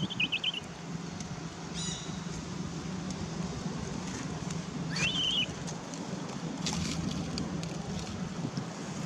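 Newborn baby monkey giving two high-pitched cries, each rising sharply then wavering, about five seconds apart, over a steady low hum.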